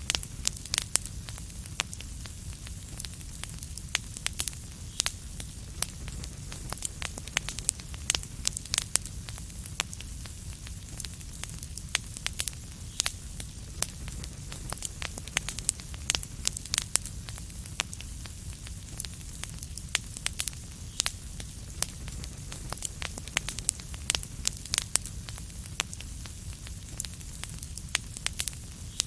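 Wood fire in a fireplace crackling: many sharp pops and snaps, several a second and uneven, over a steady low rumble of the burning.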